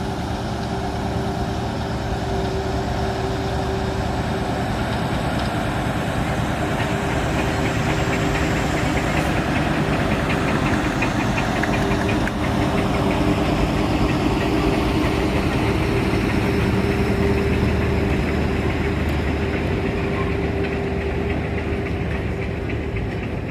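An engine running steadily with a constant hum, getting a little louder toward the middle.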